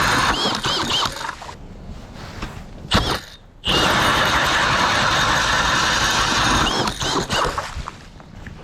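Ice auger boring a hole through river ice: a steady grinding with high squeaks from the cutting. It stops abruptly about three seconds in, starts again, and dies down near the end.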